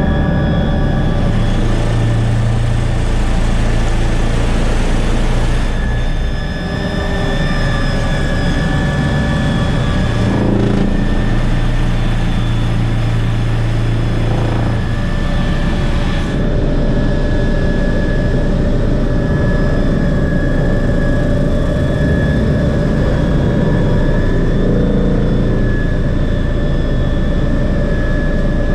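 MBB BO 105 helicopter in flight: a steady high turbine whine from its twin turbine engines over the low drone of the rotor. The low sound shifts abruptly a few times.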